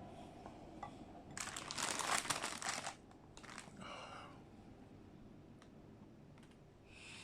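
Food packaging being crinkled and handled, with a loud stretch of crackling about a second and a half in, followed by a shorter rustle.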